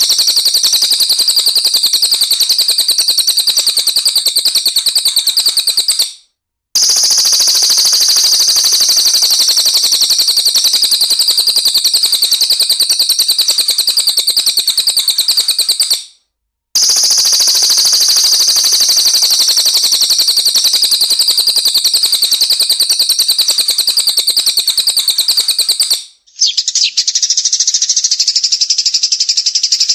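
Songbird's rapid-fire 'tembakan' song: a loud, very fast, high-pitched pulsing trill, repeated three times with two short breaks, then a different high-pitched bird recording starts near the end.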